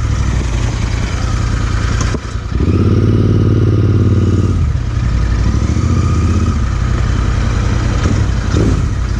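Motorcycle engine running steadily, with a louder, fuller stretch of about two seconds roughly two and a half seconds in.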